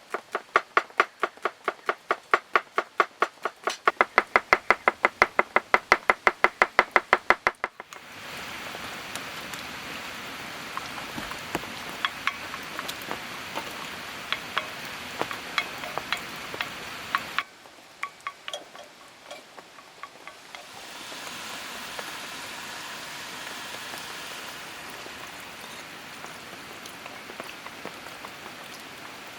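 A kitchen knife chopping on a cutting board in quick, even strokes, speeding up about four seconds in and stopping at about eight seconds. After that a steady hiss with scattered ticks and pops takes over.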